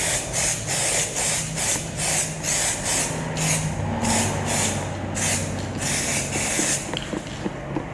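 2K aerosol spray can of paint hissing in short repeated bursts, about two to three a second: quick light dusting passes over a motorcycle frame's tubes, with a brief pause near the end.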